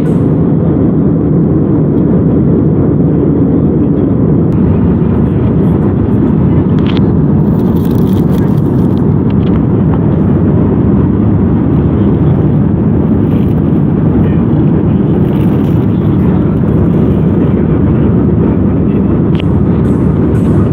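Loud, steady cabin noise inside an Airbus A319 airliner: a low, even rumble of engines and airflow, with no change in pitch.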